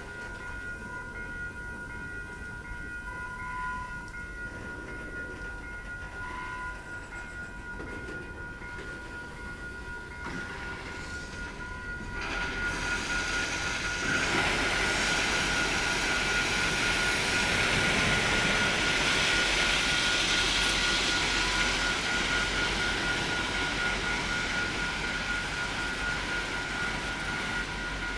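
Ballast work train going by, its rail noise rising sharply about twelve seconds in and again two seconds later into a loud steady rumble and rattle that lasts to the end. Faint steady high-pitched tones sound throughout.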